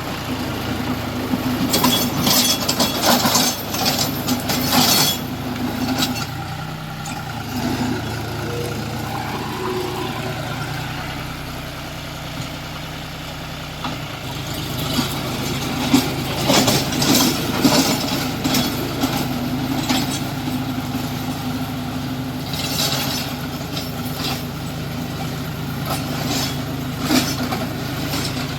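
A John Deere tractor's diesel engine runs steadily while working a rotavator. Loud rattling clatter comes in spells, about two seconds in and again from about fifteen seconds, and the engine note drops lower and quieter for a while in the middle.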